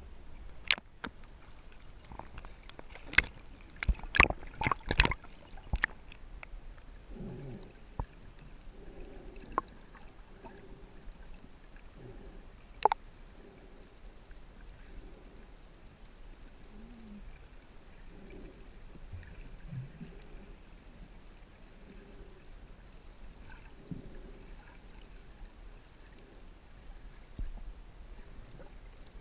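Shallow seawater sloshing and gurgling, with a cluster of sharp splashes or knocks in the first few seconds and a single sharp one about halfway through.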